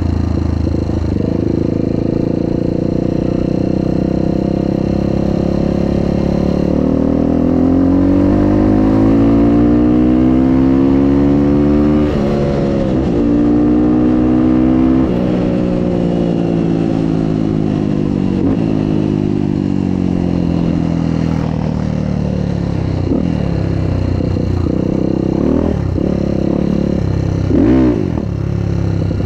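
Motorcycle engine under way: the revs climb steadily for several seconds, dip briefly at a gear change near the middle and hold, then fall away as it slows. Short throttle blips come near the end.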